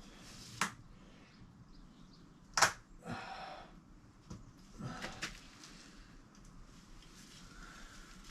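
A few scattered clicks and knocks of objects being handled, the loudest about two and a half seconds in, followed by a brief rustle.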